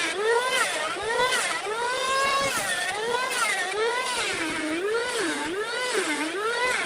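A power tool's motor running continuously, its pitch repeatedly dipping and rising as the load on it changes.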